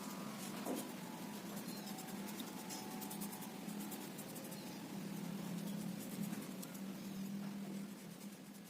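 Hand carving tool scraping across teak wood: a continuous dry scratching with small ticks, fading out near the end.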